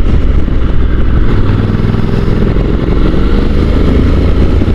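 Honda NC750 DCT motorcycle's parallel-twin engine pulling away under acceleration, its pitch climbing through the middle, over a heavy wind rumble on the helmet microphone.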